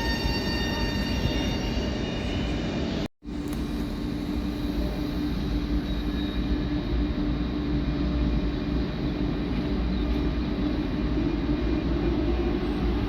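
Train running on the track, with several steady whining tones over the rumble at first. After a brief dropout about three seconds in, a steady rolling rumble with a low hum continues.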